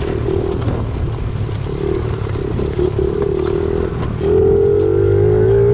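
Pit bike engine running as the bike is ridden, the throttle opening about four seconds in so the engine gets louder and rises in pitch.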